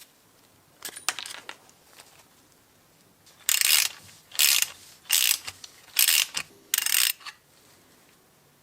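Metal-on-metal work on a KIRA bench drill press being taken apart: a few light clicks, then five short, sharp rasping bursts about a second apart.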